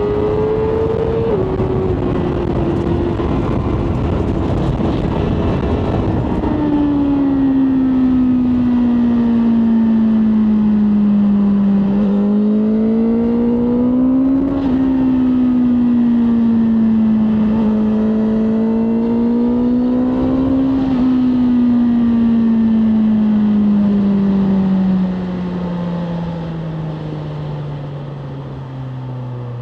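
BMW M1000R Competition's inline-four engine running under way, with wind rush over the microphone in the first few seconds. The engine note climbs twice under throttle, each time dropping sharply as it is shifted up a gear. Near the end the throttle closes and the revs fall away.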